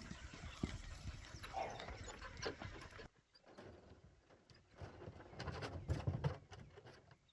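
Cattle moving about with irregular soft hoof thuds and knocks on the ground.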